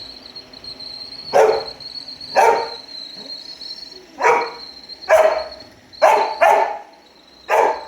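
A dog barks repeatedly at a robot vacuum: seven short, sharp barks at uneven intervals, two of them in quick succession about six seconds in. A steady high whine, the robot vacuum running, continues underneath.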